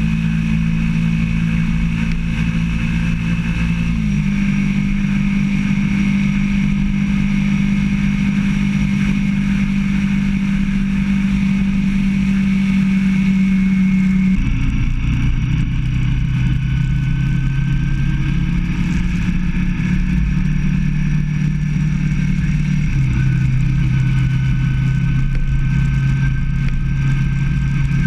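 Motorcycle engine running at a steady cruise, its hum stepping down to a lower steady pitch about halfway through and again a little lower later on, over low wind and road rumble.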